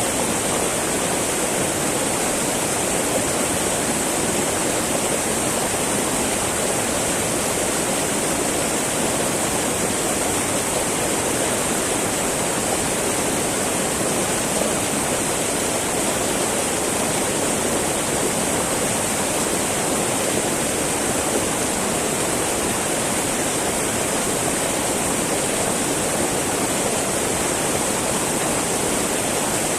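Small mountain river babbling and rushing over rocks, a steady, unbroken flow of water.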